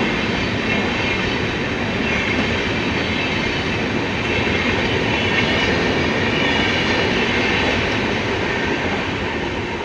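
Indian Railways train moving on the track: a steady loud rumble of wheels on rail with a faint high squeal, easing off slightly near the end.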